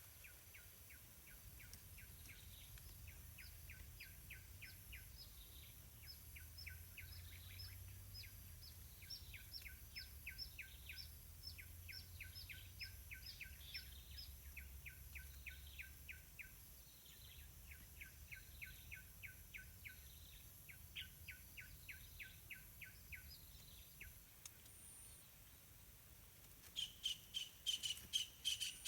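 Faint bird chirping: long runs of short, rapidly repeated chirps, about four a second, broken by brief pauses, over a steady high-pitched whine. Louder, sharper chirps come in near the end.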